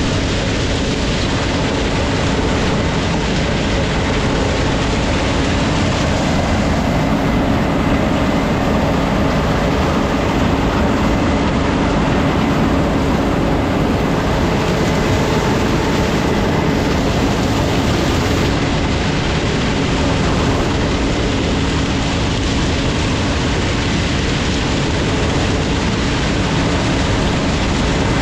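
Case IH 7230 combine harvester running steadily at working speed, a constant machine drone with a few steady tones and no change in pace.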